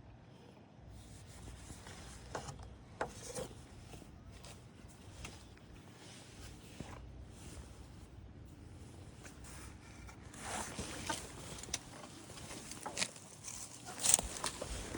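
Intermittent rustling and scraping with scattered sharp clicks, busier and louder over the last few seconds.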